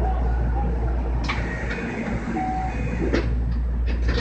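Steady low hum and rumble heard inside a JR West 225-5100 series electric train, with a handful of sharp clicks and rattles from about a second in.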